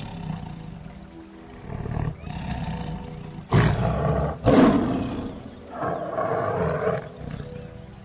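Lion roaring in a series of four rough calls, the loudest about halfway through, over soft background music.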